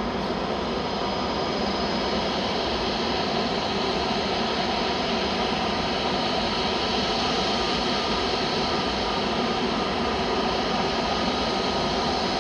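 Jet airliner's turbofan engines running steadily, a dense roar with a high whine on top, swelling slightly in the first couple of seconds and then holding.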